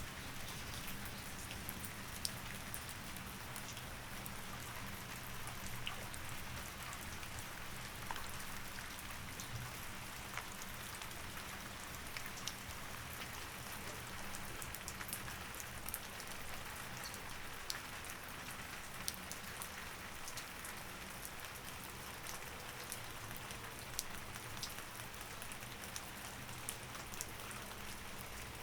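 Steady rain with scattered sharp drip ticks, over a faint low hum that weakens about halfway through.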